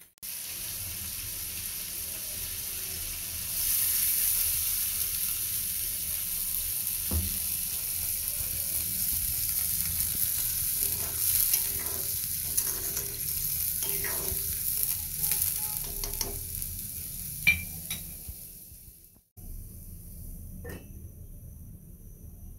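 Mutton pieces sizzling in oil and their own juices in a karahi over a gas flame, with a metal spatula stirring and clicking against the pan now and then. Near the end the sizzle fades and stops, leaving only a quieter steady low sound.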